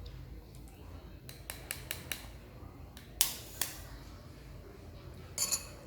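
Balot eggshell being tapped and cracked open: a few light clicks, then a sharper crack about three seconds in, and a short crackle of shell near the end.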